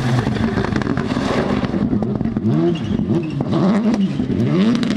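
Rally car engine accelerating hard. The revs climb and drop back several times in the second half as it shifts up through the gears, with many short sharp cracks throughout.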